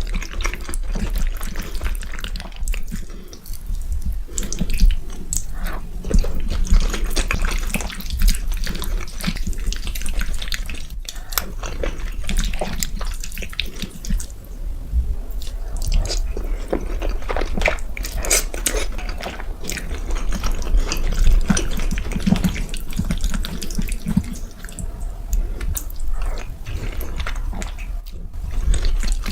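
Close-miked eating sounds: wet chewing, smacking and slurping in a quick irregular stream of small clicks.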